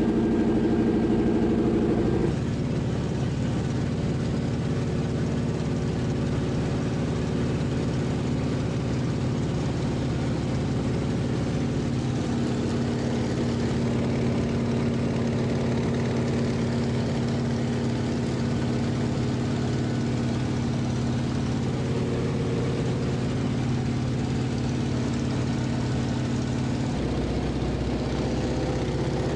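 Antonov An-2 biplane's nine-cylinder radial engine and propeller running with a steady drone, its tone shifting slightly about two seconds in.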